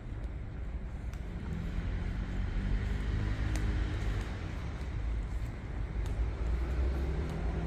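City street traffic: motor vehicles running past, with a low engine hum that swells a couple of seconds in and again near the end.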